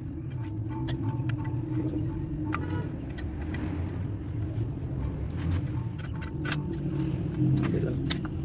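Massey Ferguson tractor engine running steadily, with scattered metallic clicks and clinks over it.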